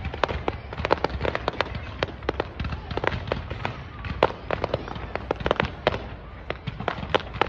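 Aerial fireworks bursting: a dense, irregular run of sharp pops and crackles with some louder bangs among them.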